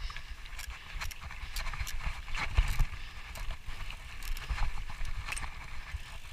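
Mountain bike rolling over a rough, wet trail: a run of irregular clicks, knocks and rattles from the bike, with a low wind rumble on the microphone.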